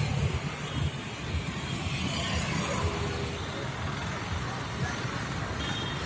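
Steady hum of road traffic with a low engine rumble and no single vehicle standing out.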